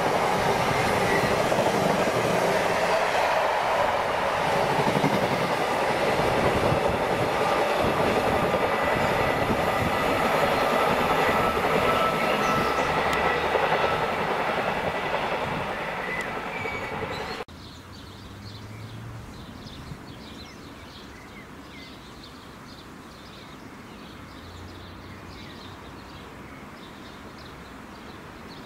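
An intermodal container freight train's wagons rolling past at speed, with a dense rolling clatter and a few thin, steady squealing tones, fading as the tail of the train moves away. About two-thirds of the way in the sound cuts abruptly to a much quieter scene with the faint, low engine note of a distant Class 47 diesel locomotive approaching.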